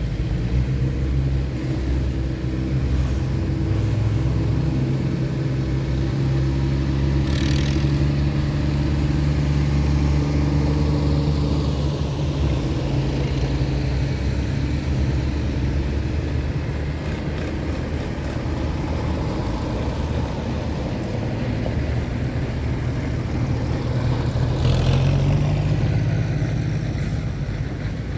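Tractor engines running steadily, their note shifting about three seconds in and rising again near the end, with two brief hissing sounds along the way.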